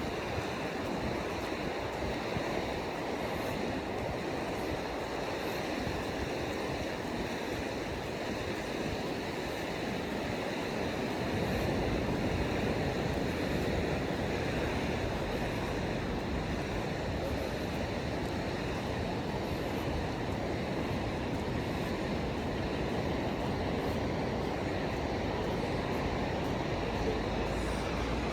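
Ocean surf: waves breaking and washing steadily onto a sandy beach, with some wind on the microphone. The low rumble grows a little louder about halfway through.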